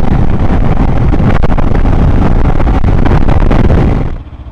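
Heavy wind buffeting on the microphone of a motorcycle at speed, a loud, even rush that covers the engine. It drops away sharply about four seconds in.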